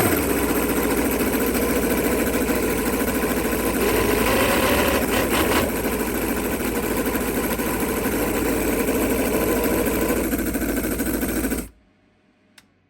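Cison V8 scale model engine running steadily with its exhaust tips not yet fitted, picking up briefly around four to five seconds in, then cutting off abruptly near the end.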